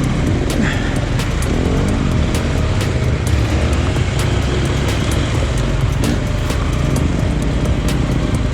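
KTM 890 Adventure R parallel-twin engine running steadily under way off-road, with wind noise and frequent sharp clicks and knocks throughout.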